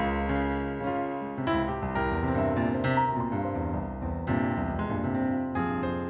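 Piano music: sustained chords with new notes struck about every second or so.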